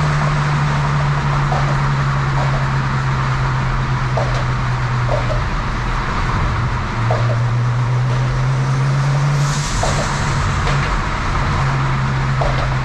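Big single-turbo BMW 335 inline-six driving at steady engine speed through its custom exhaust with resonators, X-pipe and Flowmaster mufflers, a continuous low drone. The note drops lower about seven seconds in and shifts again near ten seconds.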